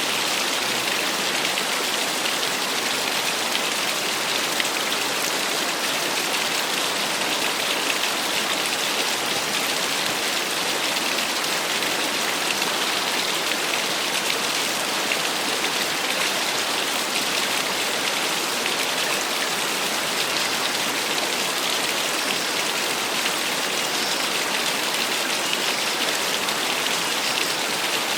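Small waterfall: water falling and splashing in a steady, even hiss with little low rumble.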